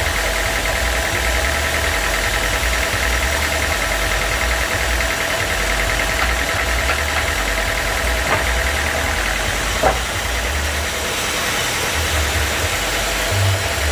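Sawmill machinery running steadily with an engine-like hum and a low rumble, with two short knocks about eight and ten seconds in.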